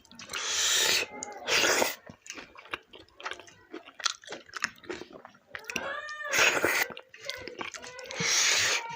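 Close-miked mouth sounds of eating maize dhido with greens and pickle: wet chewing and smacking, broken by about four loud hissing bursts, each around half a second long.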